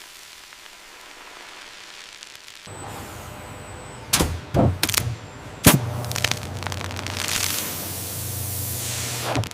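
Factory machinery sound effects: a steady hiss gives way about a third of the way in to a low machine hum, with four sharp clanks around the middle and a loud hiss that swells near the end.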